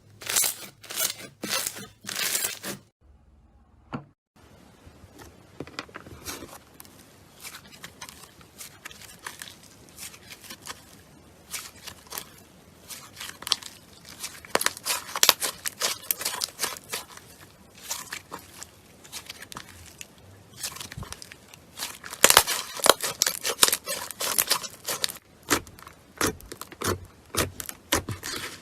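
Slime being squeezed and stretched by hand: a dense, irregular run of small crackles and pops, broken by a brief pause about three seconds in, then growing louder and denser in stretches.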